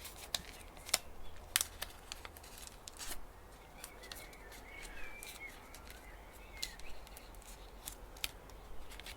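A sheet of kami origami paper being folded and creased by hand: scattered light crackles and taps, with a quieter stretch in the middle.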